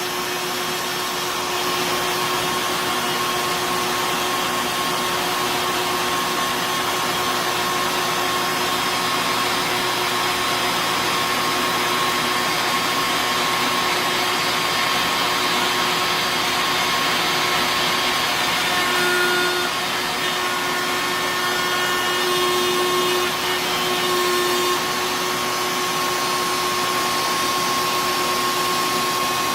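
CNC trim router spinning a small tapered ball-tip carbide bit through a wood carving pass, together with a shop vacuum for dust collection, both running steadily. The pitch rises briefly a few times about two-thirds of the way through.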